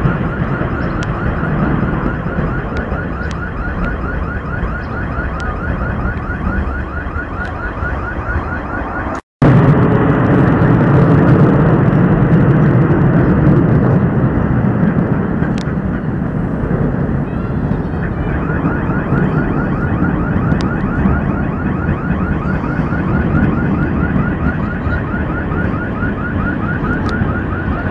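Steady low rumble of outdoor noise with a fast, evenly repeating electronic tone over it. The sound cuts out for a moment about nine seconds in.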